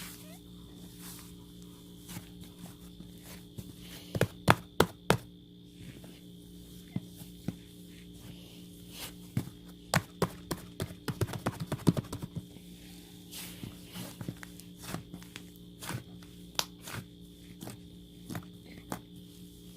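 Scattered taps and knocks over a steady hum, with a quick cluster of sharp knocks about four seconds in and a denser run of taps around ten to twelve seconds.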